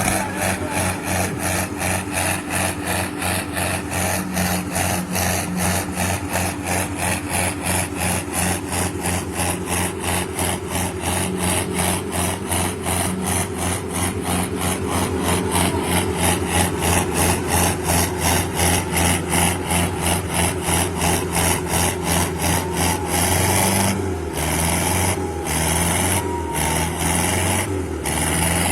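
Sonalika tractors' diesel engines running hard under heavy pulling load, with an even rhythmic pulsing about three times a second over a steady low engine hum; the pattern changes near the end.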